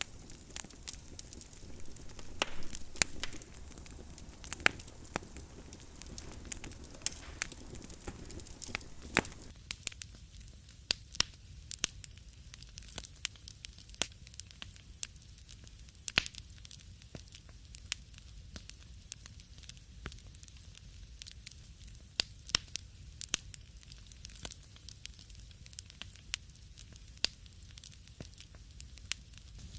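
Wood fire in a fireplace crackling, with irregular sharp pops over a low rumble. A softer background hiss drops away about nine and a half seconds in.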